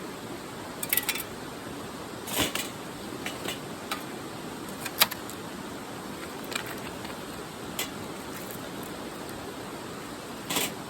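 Scattered light clinks and knocks, about eight spread irregularly over a steady rushing hiss. The sharpest comes about halfway through, with short clattery clusters near the start and near the end.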